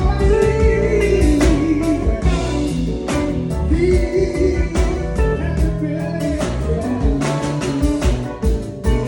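A band playing, with a singing voice over guitar, bass and drums.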